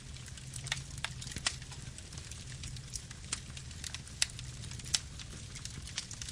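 Campfire burning: a steady low rumble of flames with irregular sharp crackles and pops of burning wood, the sharpest about 1.5, 4.2 and 5 seconds in.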